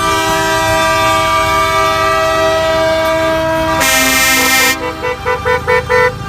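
Truck air horns sounding a long chord of several steady notes at once, then a short burst of hiss and a run of about six quick, short toots near the end.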